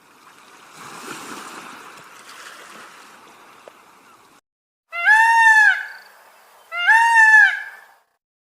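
Two loud, drawn-out animal calls, each rising and then falling in pitch, about a second apart, after a few seconds of soft rushing noise.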